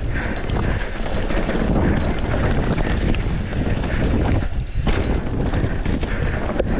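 Mountain bike rolling over a rough dirt trail: tyre noise with the bike rattling and knocking over bumps.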